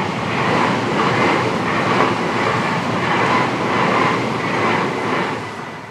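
Passing train running along the rails, with regular swells as its cars go by, fading away near the end.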